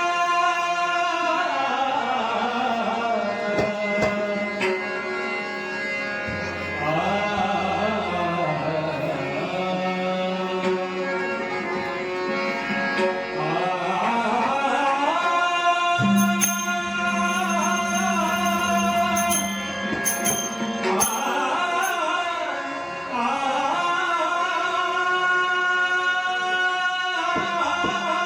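A Shri Ganesh stavan, a devotional hymn to Ganesh, sung by a solo male voice with long gliding, ornamented phrases over a steady held drone, with hand-drum accompaniment.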